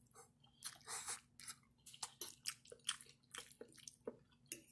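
Close-up mouth sounds of someone eating spaghetti with meat sauce: faint, irregular wet chewing and lip smacks.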